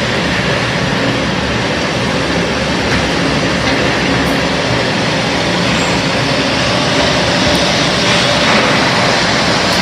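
Hailstorm: hail and heavy rain pelting down in a loud, steady, dense hiss with no let-up.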